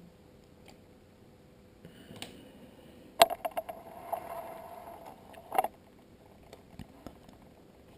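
Small parts of a plastic IP camera being handled: a sharp click about three seconds in, a steady mid-pitched whirr with small ticks for a couple of seconds, then another click.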